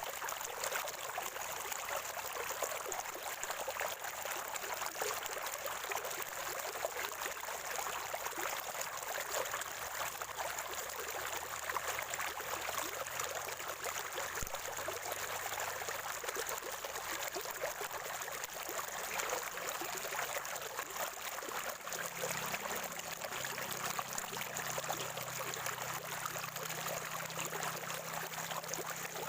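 Natural spring water gurgling and trickling steadily.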